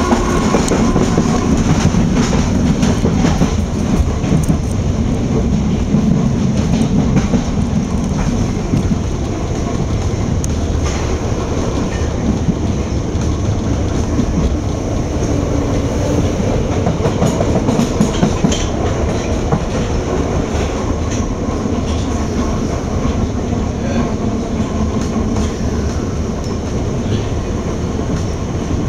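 London Underground Piccadilly line train running on surface track, heard from inside the carriage: a steady loud rumble of wheels and motors with scattered rail clicks, a little quieter near the end as it pulls into a station.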